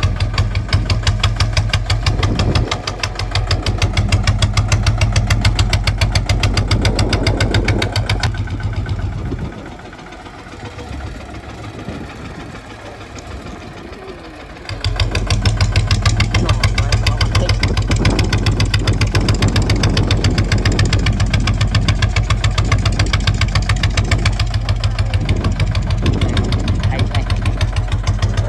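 Kubota ZT 155 single-cylinder diesel engine running with a rapid, even beat. About nine seconds in it drops much quieter for roughly five seconds, then comes back loud.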